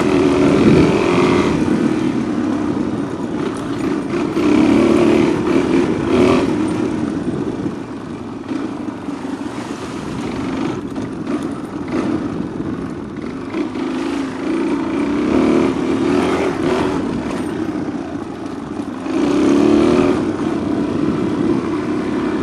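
Motorcycle engine running under load, its note swelling and easing every few seconds as the throttle is worked, with wind buffeting the unshielded microphone.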